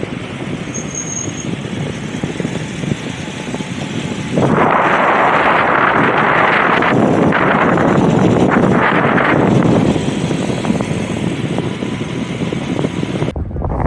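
Steady rushing wind and road noise while coasting fast downhill on a bicycle. It swells into a louder rush from about four to ten seconds in, then eases back.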